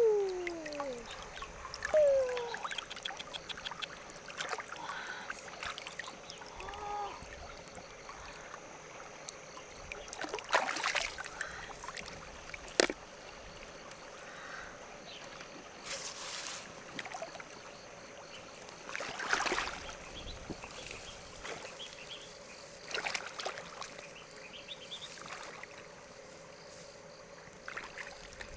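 Shallow water splashing and sloshing now and then, every few seconds, over a steady high drone.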